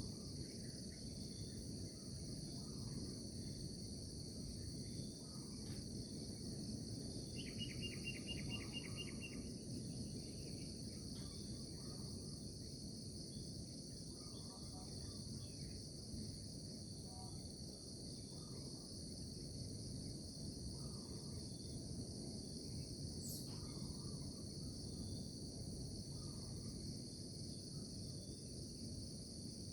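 Steady high-pitched chorus of insects, cricket-like, over a steady low background rumble. About seven seconds in a short rapid trill lasts about two seconds, with faint scattered chirps and a single click later on.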